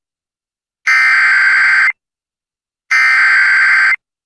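Emergency Alert System SAME header data bursts: loud, harsh screeching bursts about a second long, twice, with about a second of silence between them. They are the digital code that opens a severe thunderstorm warning broadcast.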